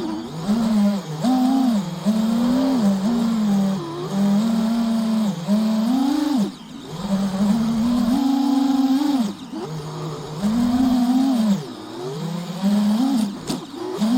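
FPV mini quad's brushless motors and propellers whining in flight, heard from the onboard camera: the pitch rises and falls in surges with the throttle and drops low for a moment several times where the throttle is chopped.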